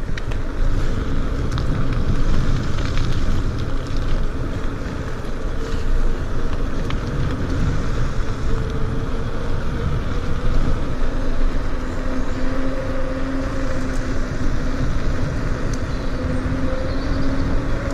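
Wind buffeting the microphone with tyre and road noise while riding a bicycle, a steady loud rumble with a faint steady hum under it.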